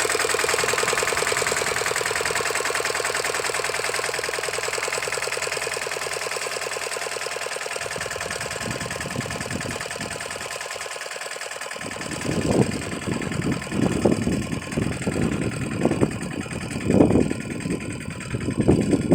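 Lombardini diesel engine of a walking tractor running steadily with an even firing beat, gradually growing fainter. Past the middle it gives way to irregular, louder low surges and thumps.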